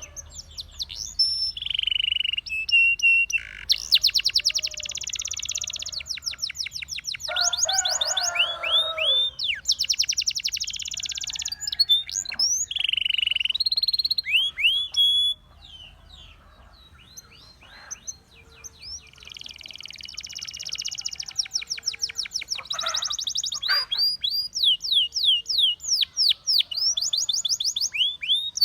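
Russian singing canary in full song: fast rolling trills of rapidly repeated notes alternating with sweeping whistled phrases, easing off for a few seconds about halfway through. A lower, harsher call breaks in about eight seconds in.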